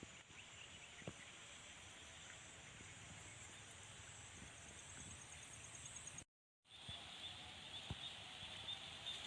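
Faint chorus of frogs and insects in a flooded rice paddy: a steady high trill with a faster pulsing call over it and lower croaking underneath, with a few small clicks. The sound cuts out completely for a split second about six seconds in, then resumes.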